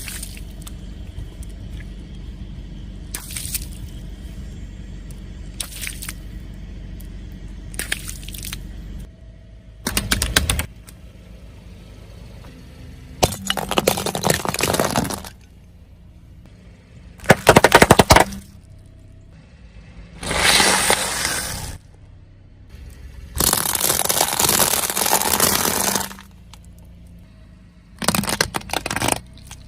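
Objects crushed under a car's tyres: a series of about nine separate crunching, cracking and breaking sounds, some sharp and short, others grinding on for two or three seconds. A low rumble runs under the first nine seconds.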